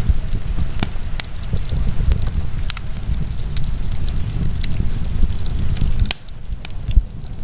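Wood fire burning in a fireplace, with frequent sharp crackles and pops over a low rumble, and one louder pop near the end.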